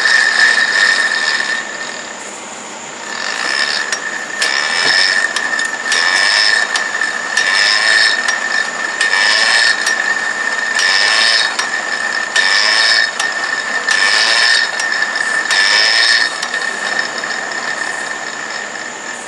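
A hand ratchet worked in repeated strokes, its clicking coming about once every second and a quarter, over a steady high tone.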